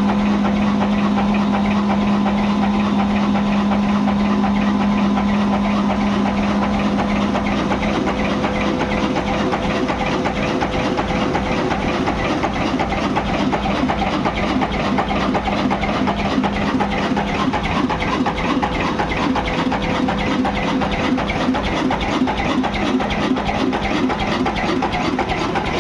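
Old 20 HP diesel engine running steadily, its firing pulses even. A strong steady hum sounds over it at first and fades after about eight seconds.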